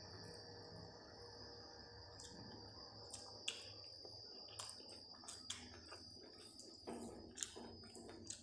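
Quiet wet chewing and lip-smacking clicks of a person eating rice and curry by hand, irregular, the loudest about three and a half and seven seconds in. A steady high-pitched whine sits under it throughout.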